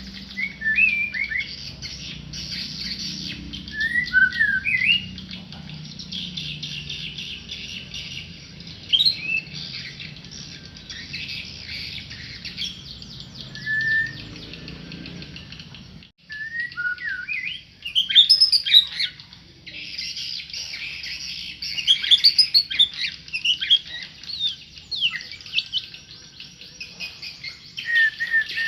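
A tame murai songbird singing loud whistled phrases that swoop up and down, over a dense twittering chatter. The sound breaks off abruptly about sixteen seconds in, then the singing starts again.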